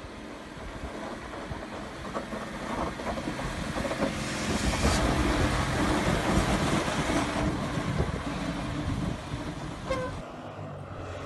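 Heavy snow-clearing vehicle's diesel engine running, building up to its loudest in the middle and easing off, with the sound changing abruptly near the end.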